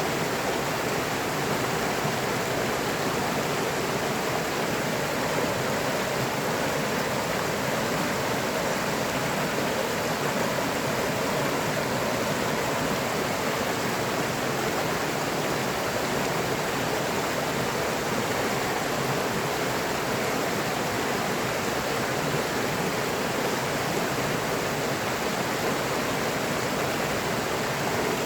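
A river flowing, a steady, even rush of water with no separate splashes.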